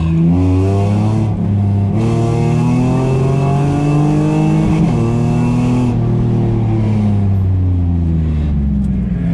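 Car engine heard from inside the cabin during an autocross run, revving up and down. The pitch climbs, breaks off briefly about a second and a half in, climbs again, then falls away through the second half as the car slows.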